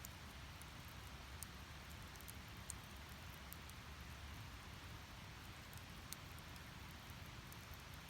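Firewood burning in a fire pit: a faint steady rumble and hiss of the flames, with a handful of scattered sharp crackles and pops from the burning wood.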